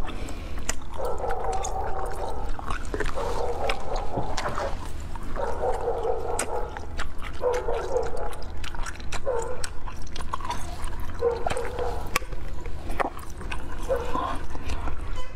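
Close-up mouth sounds of chewing a mouthful of green jelly: a run of chewing bursts, each about a second long, with small clicks in between.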